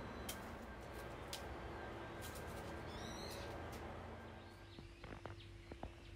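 Outdoor garden ambience with birds calling: a high twittering call about three seconds in and fainter calls a little later, over a steady background hum with a few sharp clicks.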